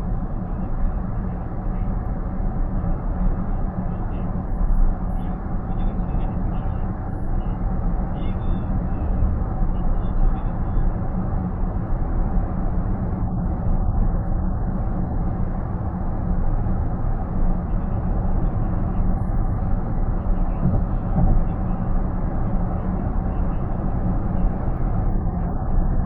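Steady road and tyre noise of a car cruising on an expressway, heard inside the cabin, with a low, even hum underneath.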